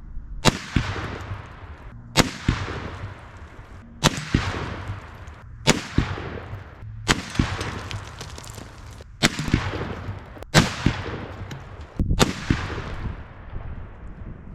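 Barrett M82A1 semi-automatic .50 BMG rifle firing eight shots in steady succession, about one every one and a half to two seconds, each crack followed by a long rolling echo.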